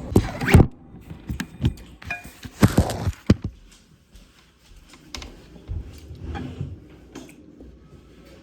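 Eating and handling food close to the microphone: several sharp knocks and crinkles in the first second and again about three seconds in, then fainter scattered handling noises.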